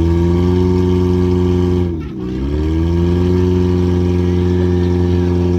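Car engine revved hard and held at high revs. The revs drop sharply about two seconds in, then climb straight back up and hold steady.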